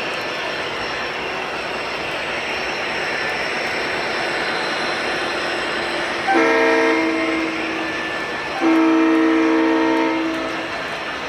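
Model trains running on a layout, giving a steady rolling noise of wheels on track. A locomotive's sound unit gives two chord-like horn blasts, a short one about six seconds in and a longer one a couple of seconds later.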